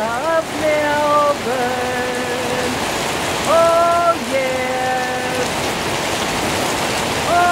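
Rain falling steadily on banana plants and garden foliage, an even hiss. Over it runs a slow tune of held notes that slide between pitches.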